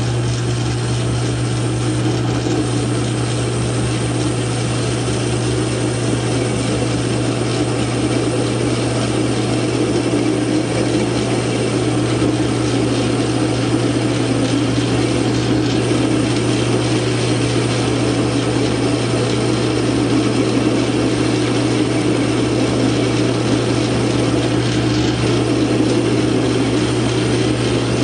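South Bend 9-inch metal lathe running steadily, its drive and gears clattering rapidly under a low hum.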